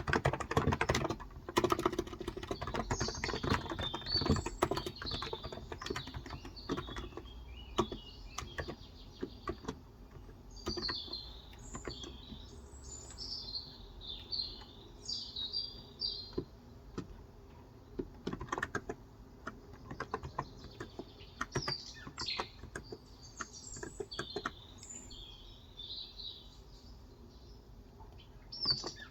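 Typing on a Cox Endeavor electro-capacitive 35 g tenkeyless keyboard: a quick run of keystrokes for about the first nine seconds, then scattered keystrokes. Small birds chirp in the background in several bouts.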